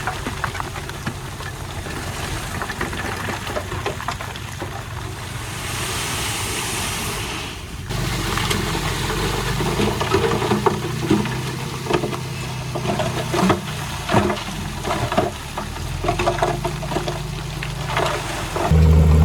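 Diesel engine of heavy earthmoving machinery running steadily, with scattered clanks and knocks of stone and metal through the middle and later part. The sound changes abruptly about eight seconds in, and the engine becomes much louder right at the end.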